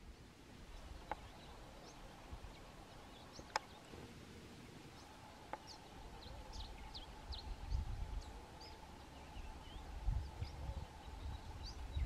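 Outdoor ambience: faint, short, high chirps of small birds, thickest from about five seconds in, over a low rumble, with a few sharp clicks.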